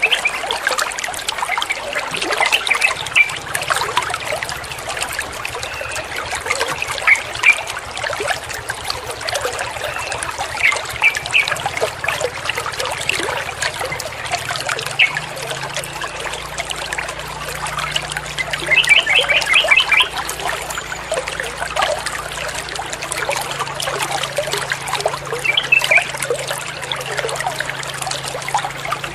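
Water trickling and running steadily, with short bird chirps every few seconds and one quick trill in the middle. A faint low hum sits underneath.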